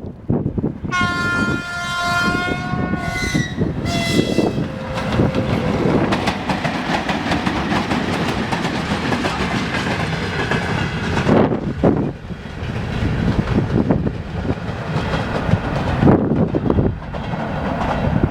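VL80S electric locomotive hauling a work train sounds its horn: one long blast of about two seconds, then two short blasts, the last tone dropping in pitch. Then the loud rolling rumble of the train passing close by, with wheels knocking over rail joints.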